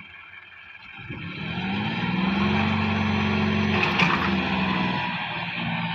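Tractor's diesel engine revving up about a second in, its pitch rising and then holding at high revs, with one sharp crack at about four seconds.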